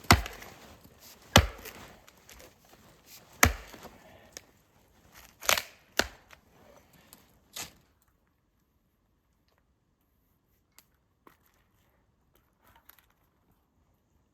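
Small forest axe chopping and splitting wood: six sharp, uneven strikes over about eight seconds, then a few faint clicks.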